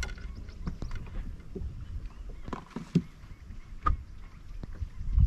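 Scattered knocks and clicks on a fishing boat, about half a dozen at irregular intervals, over a low rumble.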